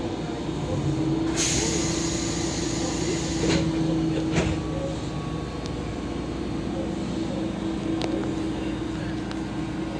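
Sanyo Electric Railway train running, heard from inside the passenger car: a steady motor hum, with a loud hiss of air about a second and a half in that lasts about two seconds, and a few sharp knocks.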